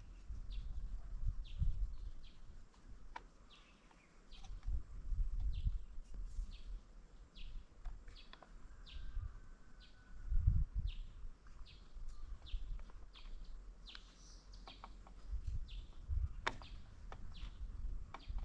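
A bird calling over and over, short high chirps about twice a second, with low rumbling and a few sharp clicks underneath.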